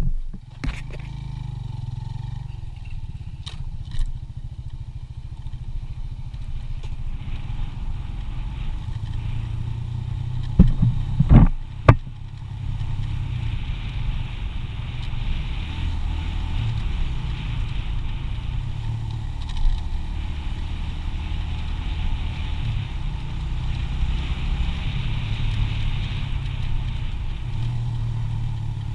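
Small 125cc motorcycle engine running under way, its pitch stepping up and down. A few loud knocks come about eleven seconds in, and a steady hiss joins soon after.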